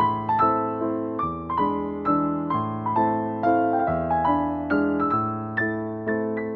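Background piano music: a slow, gentle piece of broken chords, a new note struck about twice a second and each one fading away, over a bass note that changes every second or so.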